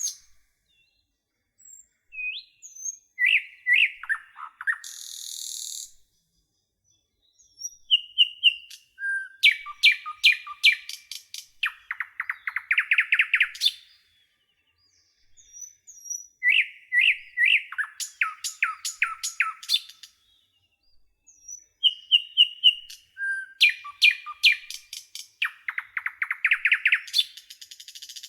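A songbird singing: a few scattered chirps at first, then the same long, elaborate song phrase three times with short pauses between. Each phrase has whistled notes, rapid trills and a fast rattling run.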